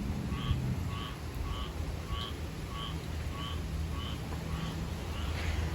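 A frog calling: a short call repeated evenly about every 0.6 seconds, over the steady hiss of rain and a low hum.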